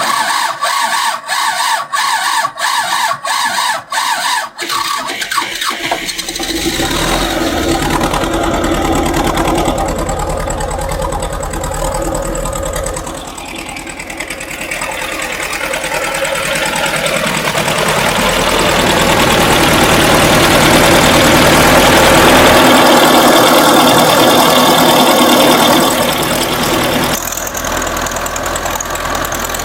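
Old tractor engine cold-starting in freezing weather: the starter cranks it over in a slow, even rhythm for about five seconds until it catches. It then runs, grows louder and higher for several seconds, and drops back to a steadier idle near the end.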